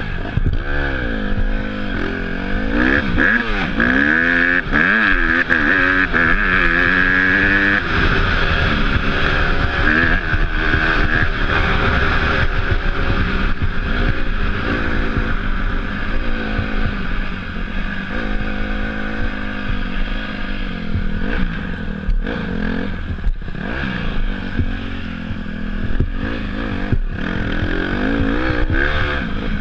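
Dirt bike engine running as it is ridden, its pitch rising and falling with repeated revs, over a steady rushing noise, with a few sharp knocks in the second half.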